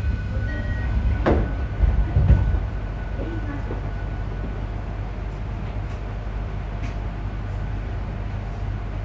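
Running sound inside a JR Hokkaido 731 series electric train car: a heavy low rumble with a sharp knock about a second in and louder thuds for the first couple of seconds, then settling to a steady low rumble. This car, MoHa 731-109, is known for an abnormal roar from a bogie traction motor that resembles an old nose-suspended motor.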